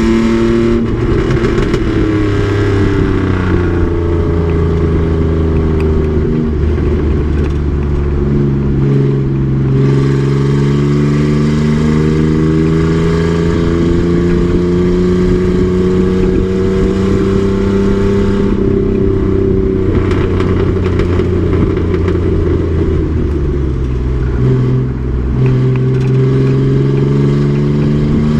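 Race truck's engine running hard under load. Its pitch falls over the first few seconds, then climbs steadily for about ten seconds and falls again. After a brief dip in pitch and loudness near the end it rises once more.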